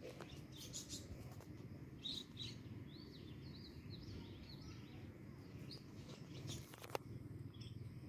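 Faint, short bird chirps, a quick run of them about two to three and a half seconds in, over a steady low background rumble, with a sharp click near the end.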